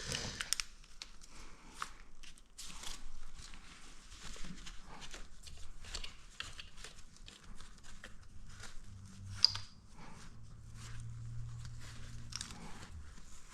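Scattered clicks, knocks and rustles of hands handling parts and tools, with one sharp click about nine seconds in. A low hum comes in for the last few seconds.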